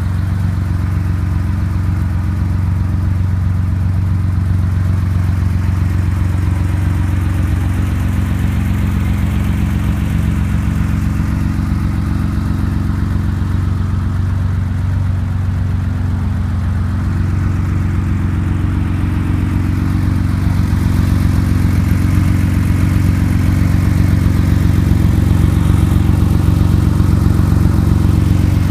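Porsche 911's air-cooled 2.7-litre fuel-injected flat-six idling steadily, a little louder from about two-thirds of the way through.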